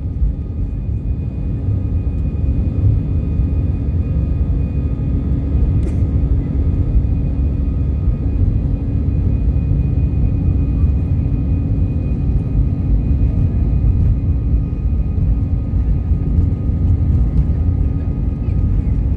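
Airliner engines running, a steady low rumble with a held whine over it.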